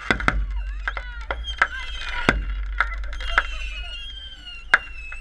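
Consumer fireworks going off: sharp bangs and cracks every half second to a second, the loudest near the end, under several overlapping whistling tones that hold or bend in pitch.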